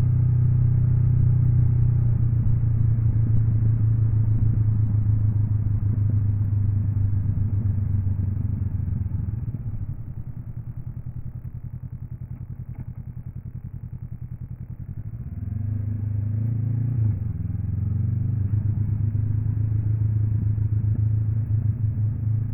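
Honda NX 500's parallel-twin engine running under way. About midway it eases off and goes quieter for several seconds, then revs up with a rising pitch and a gear change before pulling steadily again.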